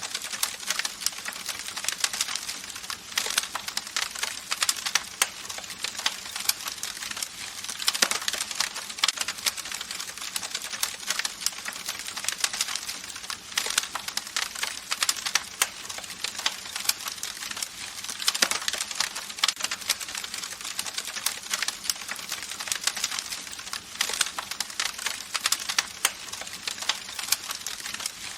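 Wood campfire crackling steadily: dense, irregular snaps and pops over a soft hiss of burning, with a few louder pops now and then.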